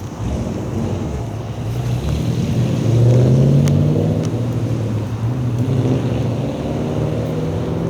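A large vehicle's engine running with a low, steady hum that swells to its loudest about three seconds in, then holds.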